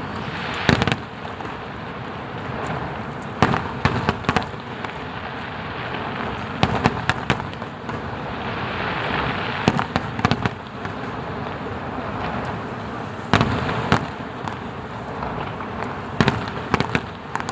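Aerial fireworks going off: a steady crackle with sharp booming bursts every few seconds at irregular intervals.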